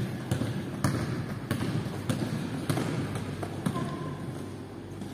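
A basketball being dribbled on a gym floor during play: a string of irregular bounces about every half second, echoing in the large hall.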